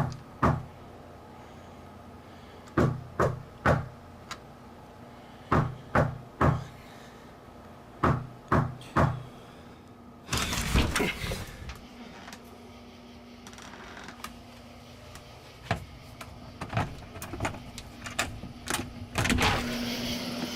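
Knocking on a door in quick sets of three, repeated about every two and a half seconds. About ten seconds in, a longer, louder rattling noise follows, then scattered clicks and bumps.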